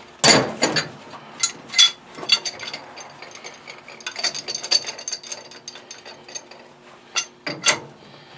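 Metal pipe fittings and hand tools clanking and clicking while a threaded pipe union is worked off old boiler piping. A few sharp knocks stand out, with a run of rapid small clicks in the middle.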